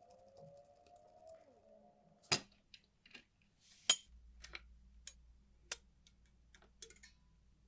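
Small metal parts of a mechanical calculator being worked by hand. A short squeak of metal rubbing is followed by two sharp clicks, the second the loudest, then a run of lighter clicks and taps about every half second.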